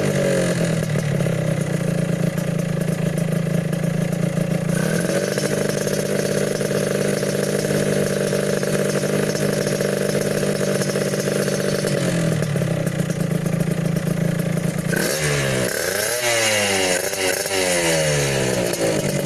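Suzuki RGR 150 two-stroke single-cylinder engine warming up: it runs at a fast idle, steps up to a higher steady speed about five seconds in, settles back down later, then gets several quick throttle blips near the end.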